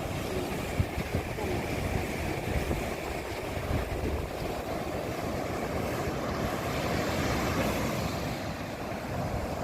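Ocean waves washing continuously, with wind buffeting the microphone in low gusts.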